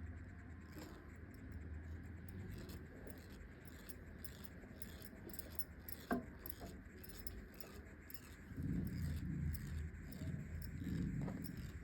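Eyebrow threading: a twisted cotton thread rolling over the skin and snapping out hairs, heard as a run of quick faint ticks. A short sharp squeak falls in pitch about six seconds in, and low muffled sounds come in near the end.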